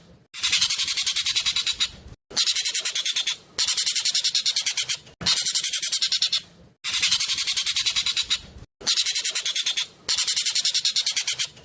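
Jovin bird (ekek keling) singing fast, tight strings of sharp, high chirping notes. Each string lasts about a second and a half, and the strings repeat after brief pauses, about seven in all.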